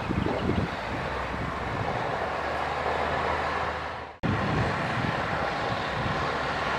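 Heavy diesel earthmoving machinery running steadily, with uneven low rumbling and knocks. The sound cuts out abruptly for an instant a little past four seconds in, then resumes as before.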